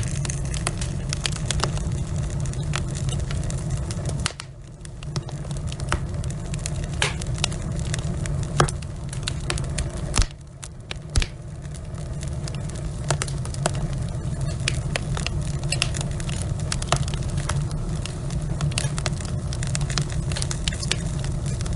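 Log fire in a fireplace crackling, with frequent sharp pops and snaps over a steady low rumble. Two louder pops come a little past the middle, and the rumble drops out briefly twice.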